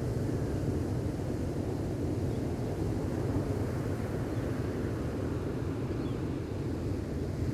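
Steady low rumble of gentle ocean waves washing on the shore.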